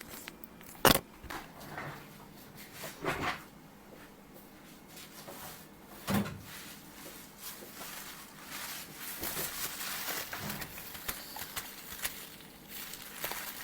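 Scattered handling noises of tools and phone parts on a workbench: a sharp click about a second in, knocks at about three and six seconds, then light rustling and small clicks.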